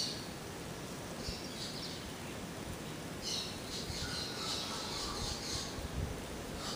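Birds twittering, briefly about a second in and then for a couple of seconds from about three seconds in, over a steady low rumble.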